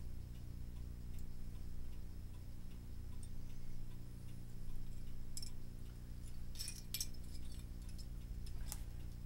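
A clock ticking steadily, with a few sharper small clicks of hard plastic parts being handled about halfway through and near the end, over a low steady electrical hum.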